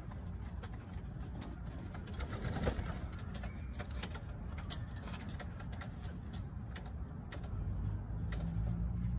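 Pigeons cooing in a loft, over a steady low rumble with scattered light clicks.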